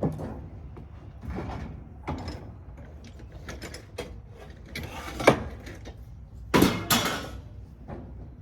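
Metal parts and hand tools knocking and scraping while an air-conditioning unit is taken apart for scrap. The sounds are irregular, with a sharp clank about five seconds in and a longer, louder scrape soon after.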